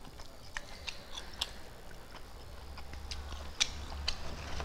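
Close-up chewing of a mouthful of rice eaten by hand, with scattered small wet mouth clicks and smacks. A low hum underneath grows stronger about three seconds in.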